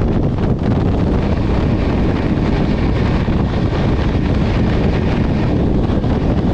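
Steady loud rush of a moving train running at speed, with wind buffeting the microphone.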